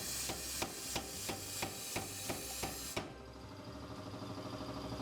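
Power hammer forging hot steel: a quick run of about nine evenly spaced blows, roughly three a second, with a hiss of air, cutting off suddenly about three seconds in. An air compressor hums underneath.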